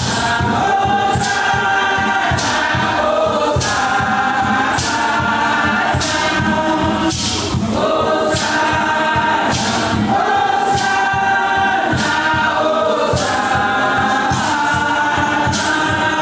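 Choir singing a gospel-style song, many voices together, over a percussion beat that strikes about once a second.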